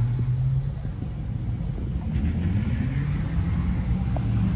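Car engine running with a low, steady rumble, its pitch edging up slightly a couple of seconds in.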